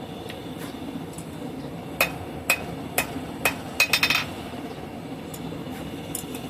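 Hammer blows on a hot steel bar on an anvil, squaring and drawing out the stock, with a bright metallic ring on each strike. About seven blows, roughly two a second, starting about two seconds in and stopping a little past the middle.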